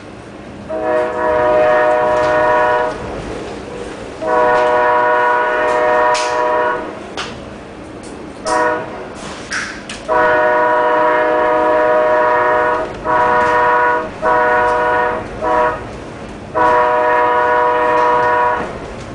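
Amtrak locomotive's multi-note air horn sounding a series of blasts as the train approaches: two long blasts, a short one, a long one, a few choppy short toots, then a final long blast. The sequence follows the long-long-short-long warning pattern sounded for a grade crossing.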